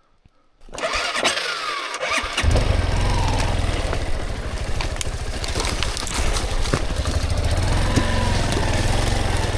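Dirt bike engine being started: it catches about two and a half seconds in and then runs steadily.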